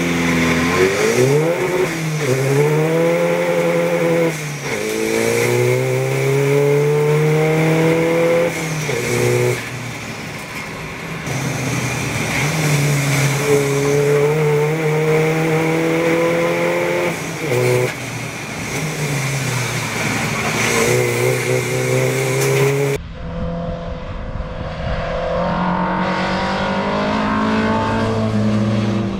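Inside the cabin of a Golf race car, its CUAA twin-turbo 2.0 TDI diesel accelerates hard through the gears: the pitch climbs in each gear and drops sharply at each upshift. About 23 s in, the sound switches to an outdoor recording of race cars passing at a distance.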